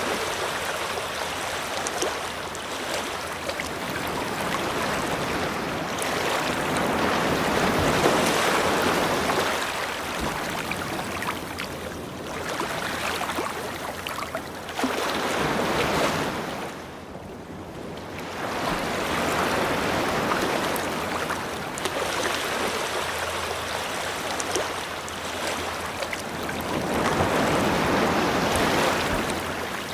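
Ocean surf washing onto a beach, the waves swelling and easing every few seconds, with a brief lull a little past halfway.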